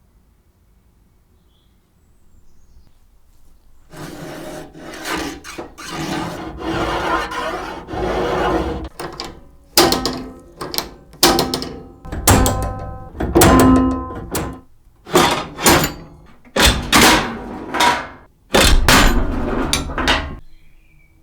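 Wooden and metal parts of an old mechanical football arcade machine being worked by hand: a rubbing, scraping run that breaks into a series of separate knocking strokes, some with a faint metallic ring.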